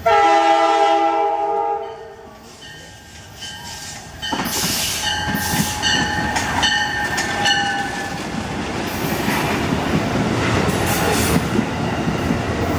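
Amtrak Downeaster passenger train led by an F40PH 'Cabbage' cab-control unit, sounding its horn in one long blast at the start, then several shorter blasts between about four and eight seconds in. After that comes the steady rumble and clatter of the coaches' wheels on the rails as they pass close by.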